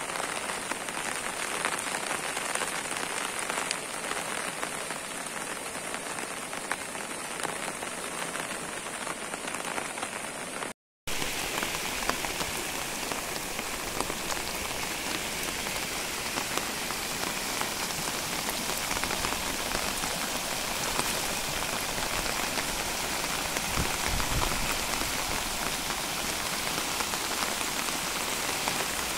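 Heavy rain falling, a steady, even hiss of rain, broken once about eleven seconds in by a momentary gap of silence.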